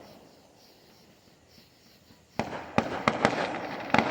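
Fireworks going off: after a short quiet spell, a loud bang about two and a half seconds in, then a string of sharp cracks with crackling in between.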